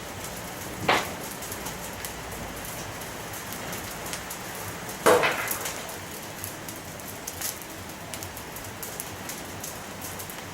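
Bonfire of dry pine branch tips and yard debris burning, crackling steadily with many small pops. Two louder bursts of crackle come about a second in and about five seconds in.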